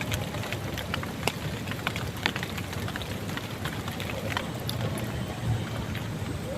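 Steady rain, with many single drops tapping sharply on a nearby surface.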